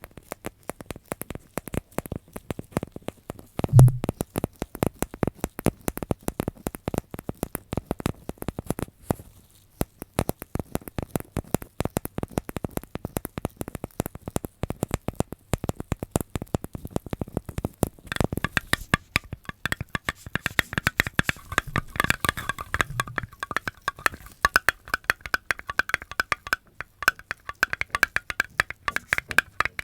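Close-miked ASMR trigger sounds: rapid, dense clicking and crackling with one heavier thump about four seconds in. From about eighteen seconds a higher, ringing tone joins the clicks.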